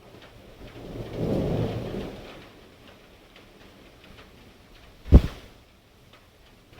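Thunder rumbling during a thunderstorm, swelling and fading over about a second and a half. A single sharp thump about five seconds in is the loudest moment. Faint ticking runs underneath.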